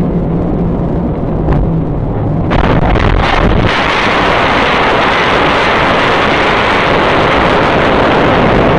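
Loud, steady rushing wind and road noise of a moving vehicle on a dashcam-type microphone, starting abruptly and growing louder and harsher about three seconds in.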